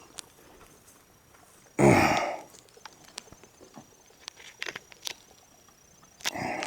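A single shotgun blast of bird shot about two seconds in, loud and sudden and dying away over about half a second, fired at a tree limb to cut it down. A shorter, quieter sound follows near the end.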